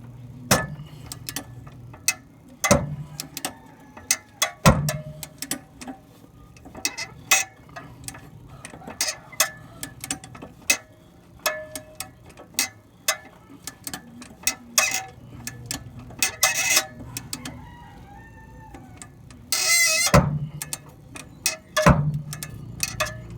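Wrench and ratchet work on rusted exhaust bolts: irregular sharp metallic clicks and clinks throughout, with a short burst of noise near the end.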